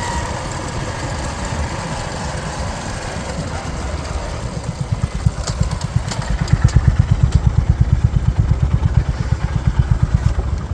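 Motorcycle engine running, with a steady rush of noise; about halfway in its low, even exhaust beat grows louder and stays strong until near the end.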